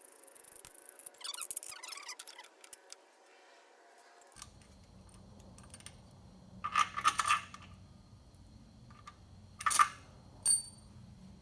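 Metal tools and hardware clinking and clanking in a few short clusters. One bright, ringing metallic clink comes near the end. This is the sound of bolts being worked on a steel transmission adapter.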